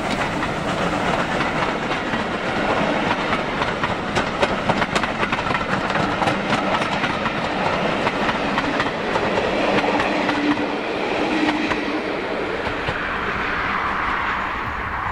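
Steam-hauled passenger train rolling past close by: the coaches' wheels clicking over rail joints, the clicks thickest in the first half, then a smoother rumble as the last coach goes by.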